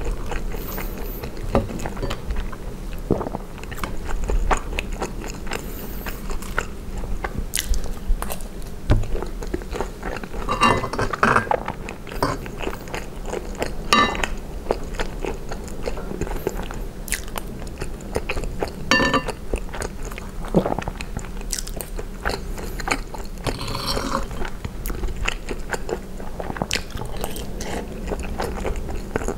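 Close-miked chewing and biting of gravy-soaked French fries and cheese curds: soft, wet mouth sounds with many small clicks, and a few louder bites scattered through.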